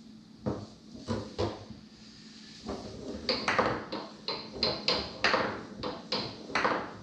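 Tornado foosball table in play: the hard ball cracking against the men and the table walls in sharp, irregular knocks. There are a few knocks at first, then they come quicker and louder through the second half.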